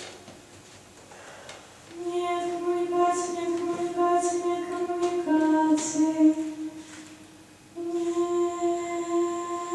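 A woman's voice singing unaccompanied in long held notes, with a drop in pitch partway through a phrase and a pause of a couple of seconds between phrases.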